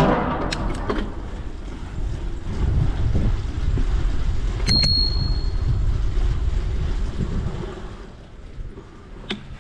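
A bicycle bell rung once about halfway through, a single bright ding that fades over about a second, over a steady low rumble from riding, with a few clicks near the start and near the end.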